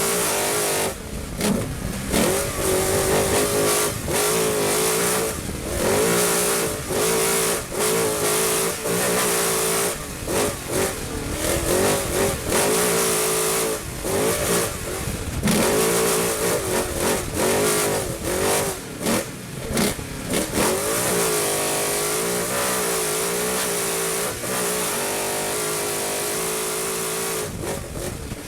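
Trophy truck engine driven hard on an off-road course, revving up and down with many brief lifts and gear changes, over a loud rushing noise of wind and tyres.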